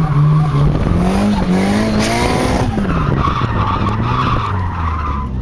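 Drift car's engine revving as the car slides, its pitch climbing over the first two seconds and dropping about halfway through, with tyres squealing in a steady skid through the second half. Heard from inside the car.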